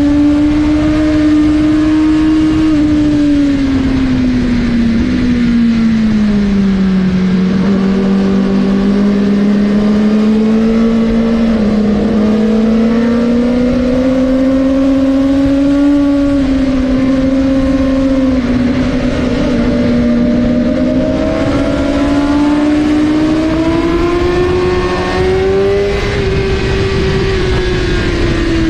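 Suzuki GSX-R1000R's inline-four engine running hard at high revs, its pitch falling, then climbing slowly, dipping again past the middle and rising once more before falling near the end, as the bike brakes and accelerates through corners. A steady rushing noise runs under it.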